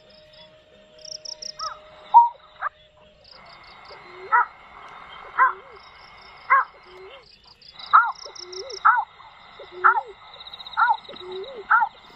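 Bird calls repeating about once a second, each a short falling note with a lower hooked note after it. A steady high insect trill and chirping run underneath.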